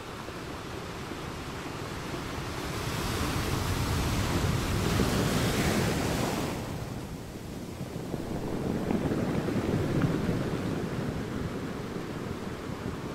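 Ocean surf washing onto a beach. One wave swells over a few seconds and falls away about halfway through, then a second, duller wash rises near the end.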